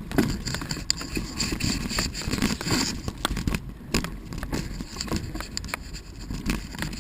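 Mountain bike and dog on a dirt trail: scraping and crackling with many small clicks over a low rumble.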